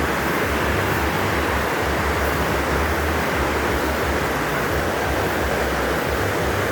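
Rushing water of a waterfall and creek, a steady, even rush with no breaks.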